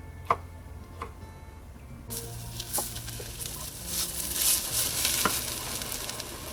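Food sizzling in a hot pan, starting about two seconds in with crackles through it, after a couple of light utensil clicks.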